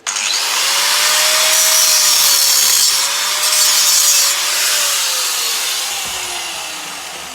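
Angle grinder cutting through the rivet head on a fire extinguisher handle: a loud grinding hiss over the motor's steady whine. About four seconds in the cut ends, and the whine slides slowly down as the disc spins down.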